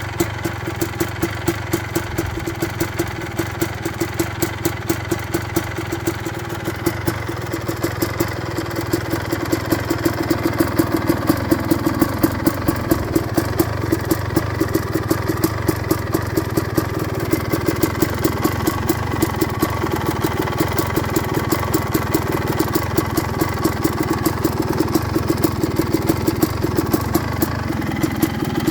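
2005 Suzuki RM250's single-cylinder two-stroke engine idling on its warm-up after a cold start, with a steady, even beat. It picks up slightly and runs a little louder through the middle before settling back near the end.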